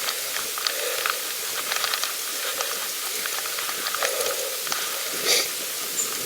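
Steady hiss of wind and tyre noise from a pedal bicycle being ridden, with scattered light clicks and knocks through it.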